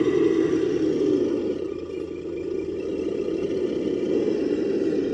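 Electric RC truck driving over rough ground: a steady motor and gear whine with tyre and drivetrain noise, easing off a little about two seconds in.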